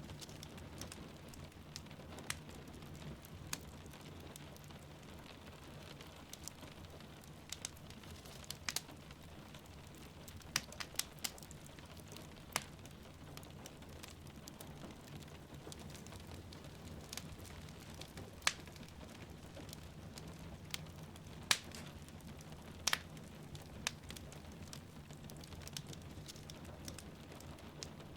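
Wood fire crackling in a fireplace, with irregular sharp pops and snaps over a steady low rumble and the even hiss of rain falling.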